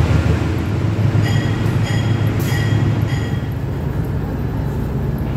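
Train running with a heavy, steady low rumble. Between about one and three seconds in, four short high-pitched tones sound in a row.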